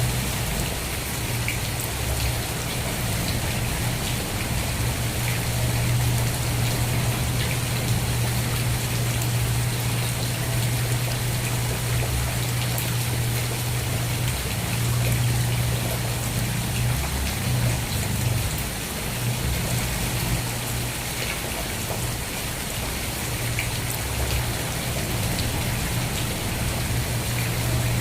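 Steady rain falling, an even hiss with many scattered drop ticks, over a constant low hum that wavers briefly past the middle.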